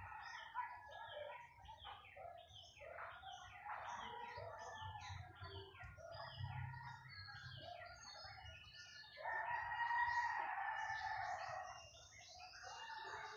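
Birds chirping in many short, quick downward-sweeping notes, with a louder drawn-out call lasting about two seconds starting about nine seconds in.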